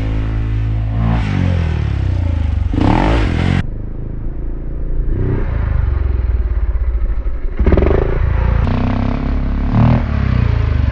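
Dirt bike engine revving up and easing off again and again, about every two seconds, as the bike is ridden around the track.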